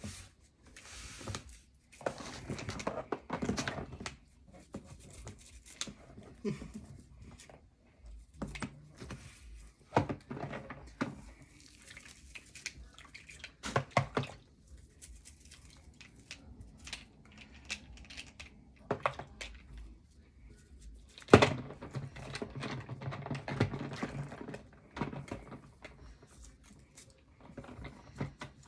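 Toy cars being scrubbed and knocked about in a container: irregular scrubbing noise and scattered clicks and knocks, the sharpest knock about 21 seconds in.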